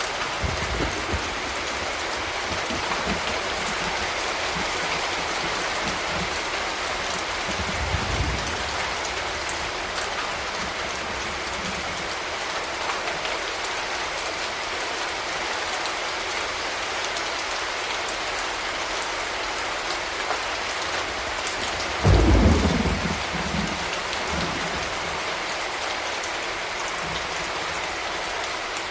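Steady rain falling, with a low rumble of thunder about eight seconds in and a louder, sudden clap of thunder about two-thirds of the way through that rolls off over a second or two.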